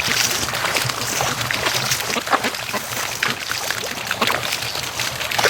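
A flock of ducks splashing and paddling through shallow water, a continuous irregular sloshing and splashing.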